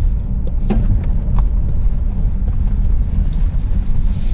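A Ford Focus driving slowly over a rough road: a steady low rumble of engine and road noise, with a few light knocks from the car going over bumps.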